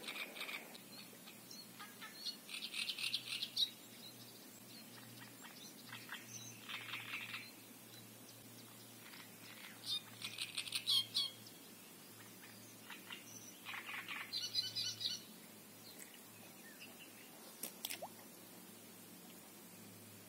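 Small birds chirping in short, rapid trills: about five bursts a few seconds apart, with one sharp click near the end.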